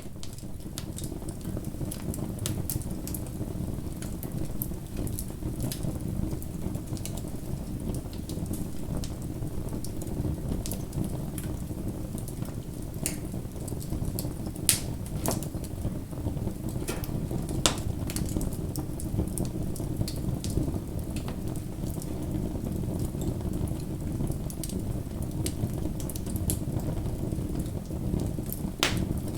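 Bonfire burning: a steady low rush of flames with frequent small crackles and sharp pops, two of them louder about halfway through.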